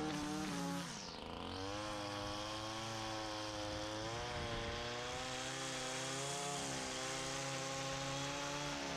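Small gas engine of lawn equipment running steadily; about a second in, its pitch and loudness dip sharply as the throttle is eased, then climb back up to a steady run.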